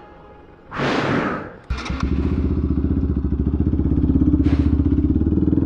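A short hiss, then about two seconds in a Bajaj Pulsar NS200's single-cylinder engine with an Akrapovic aftermarket exhaust comes in suddenly and settles into a steady, even idle.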